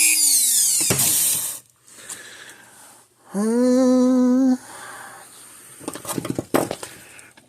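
A small high-speed rotary tool cleaning a wire terminal tab: its whine falls away as it winds down in the first second and a half. It then runs again for about a second, rising quickly to a steady whine before cutting off. A few sharp clicks of handling follow near the end.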